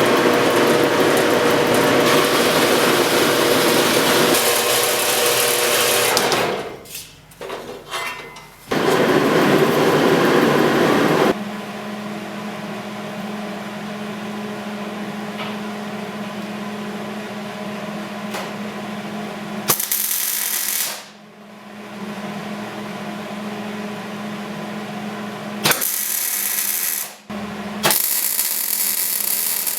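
Metalworking on steel stock: a few seconds of loud, harsh cutting or grinding noise, a short break, more of the same, then a steadier, quieter humming run broken by two brief loud bursts.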